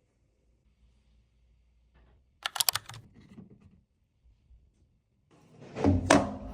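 A quick run of sharp clicks about two and a half seconds in, then louder knocks and handling noise near the end.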